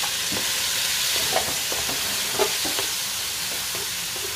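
Cubes of tofu frying in hot oil in an aluminium wok, with a steady sizzle. A wooden spatula scrapes and knocks against the pan as they are stirred, with two louder knocks in the middle.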